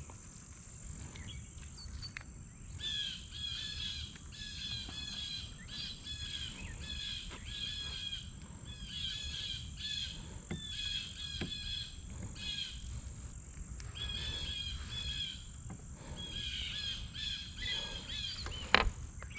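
A songbird chirping repeatedly in short, quick phrases over steady low outdoor background noise, with a sharp click near the end.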